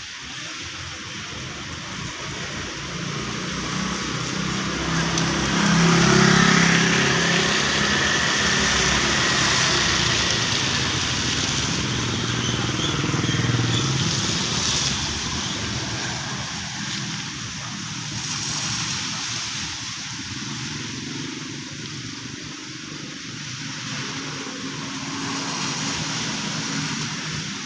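Heavy rain falling steadily, with a motor vehicle passing through it, loudest about six seconds in and fading away by about sixteen seconds.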